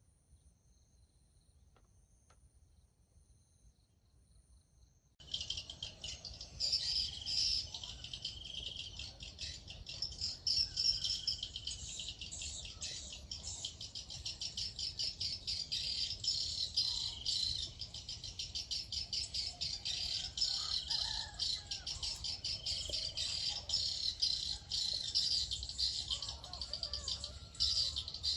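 Near silence for about five seconds, then a sudden dense chorus of high-pitched chirping, rapid and unbroken, from small birds or insects.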